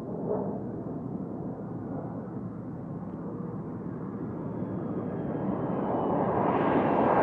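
Saab JAS 39 Gripen fighter's jet engine, a steady rushing roar that grows louder over the last couple of seconds.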